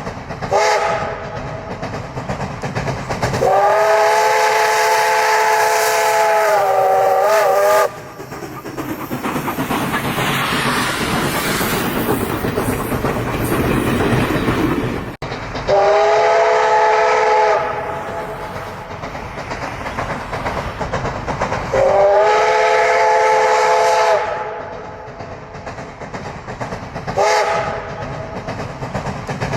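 Steam locomotive whistle sounding five blasts of several notes at once: a short toot, a long blast of about four seconds, two shorter blasts and a brief toot near the end, over the running noise of the train.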